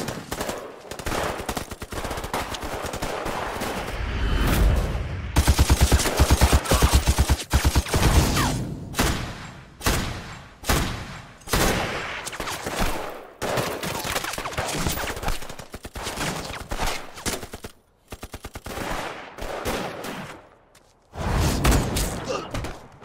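Battle gunfire from a war-film soundtrack: rifle shots mixed with bursts of rapid machine-gun fire. The fire is densest and fastest about five seconds in, and drops out briefly twice in the second half before starting again.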